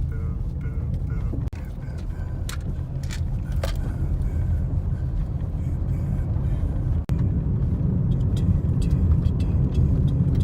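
A car driving: low, steady road and engine rumble, with a few sharp clicks about three seconds in.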